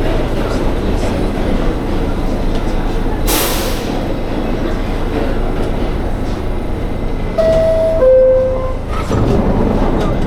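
New York City subway train rumbling steadily, with a short hiss of air about three seconds in. Near the end comes a two-note falling chime, the signal that the doors are closing.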